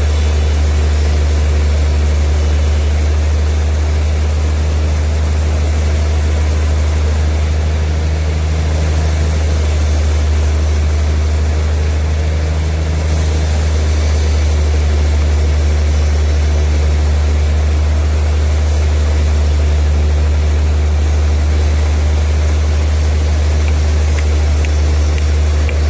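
Sawmill machinery running with a steady, loud low drone that does not change.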